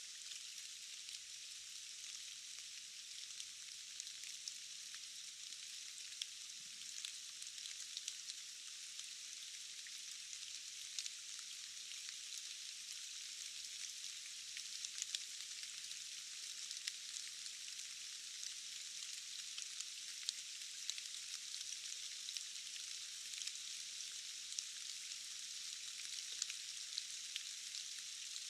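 Steady rain: a continuous high hiss of falling drops, with many small ticks of single drops scattered through it.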